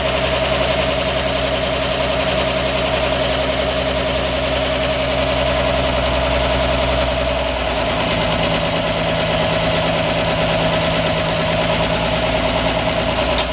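1946 Chevrolet 2-ton cab-over truck's 235 inline six running steadily on all six cylinders, its first run in years after a head rebuild freed two stuck exhaust valves. About seven and a half seconds in, the deep low rumble drops away and the engine's tone shifts.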